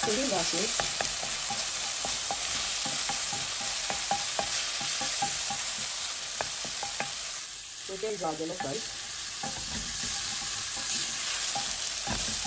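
Shrimp sizzling in hot oil in a stone-coated frying pan, stirred with a spatula that makes frequent small clicks and scrapes against the pan.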